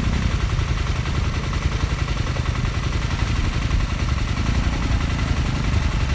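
Dual-sport motorcycle engine running steadily, heard through a phone mounted on the bike.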